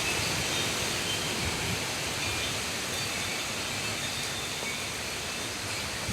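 Heavy tropical-storm rain falling with gusty wind, a steady even hiss.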